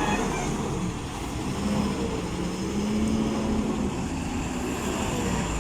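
Heavy lorry's diesel engine pulling uphill on a steep ghat road, a steady drone whose pitch wavers slightly, over a low rumble.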